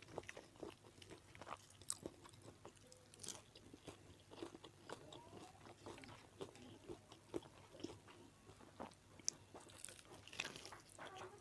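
Faint close-up chewing and biting, a person eating: irregular small clicks and crunches from the mouth throughout.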